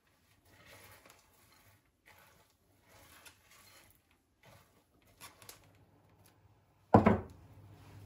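Quiet household handling noises: faint soft rustles and light knocks, then one loud thump about seven seconds in, after which a low steady hum continues.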